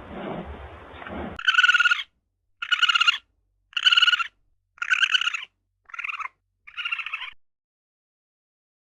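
An animal's call, possibly a bird's, given six times about a second apart. Each call is clear and about half a second long, and the last two are shorter and quieter.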